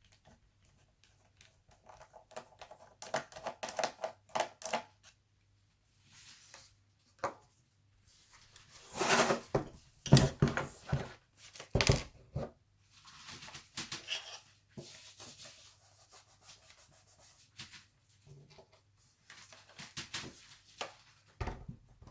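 Screws being undone from the underside of an Alienware M17x R2 laptop: scattered clicks, rubs and scrapes of the screwdriver against the screws and the plastic case, loudest around the middle.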